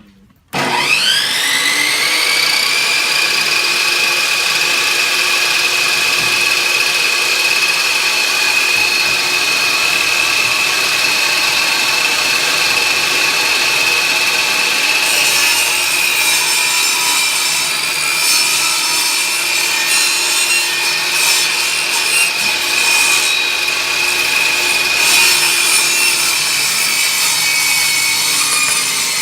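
Table saw switched on, its blade spinning up within about a second to a steady high whine. From about halfway through, the blade starts ripping a wide board freehand without a fence, adding a rough, uneven cutting noise over the whine.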